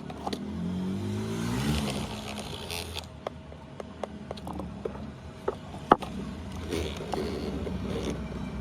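A motor vehicle engine rising in pitch for the first two seconds, then a scatter of small sharp clicks and taps of tools and parts being handled during the phone repair.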